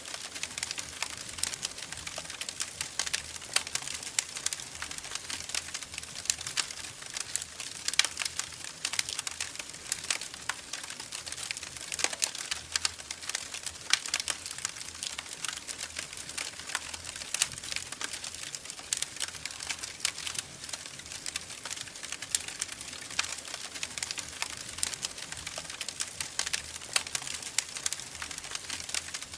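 Wood fire crackling in a fireplace, with a steady stream of irregular sharp pops and snaps.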